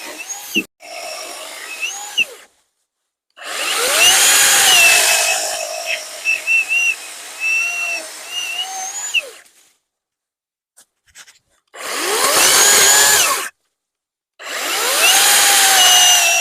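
Battery-powered WORX WG385E chainsaw cutting through logs in four bursts separated by silent gaps. Each burst opens with a rising whine as the motor spins up, and the longest cut lasts about six seconds.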